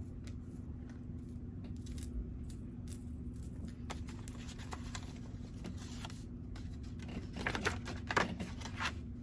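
Small bags and packaging being handled and opened by hand: scattered light clicks and rustles, with a louder spell of crinkling near the end, over a faint steady hum.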